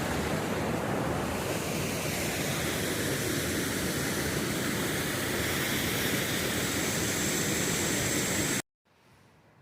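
Steady rush of a creek's waterfall and fast water, even and unchanging, cutting off abruptly near the end to near silence.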